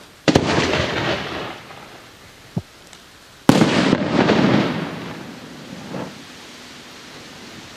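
Aerial firework display shells: two sharp booms about three seconds apart, each rolling away over a second or so, with a small pop between them.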